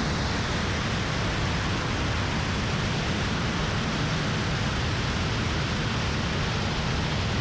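Steady in-flight cockpit noise of a T-28 trainer warbird: engine and airflow heard as a constant, even rushing hiss that does not change through the hard breaking turn.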